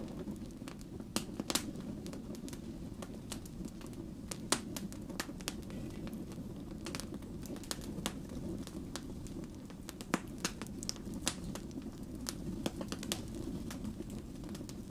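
Wood fire burning: a steady low roar of flames with frequent irregular crackles and pops from the burning logs, a few sharper snaps standing out.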